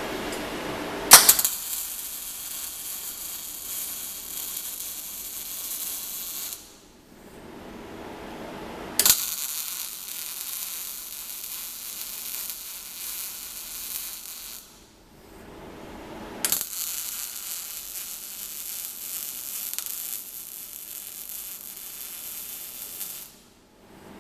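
Arc welding: three separate tack welds, each a steady crackling hiss lasting five to seven seconds that opens with a sharp crack as the arc strikes, with short pauses between them.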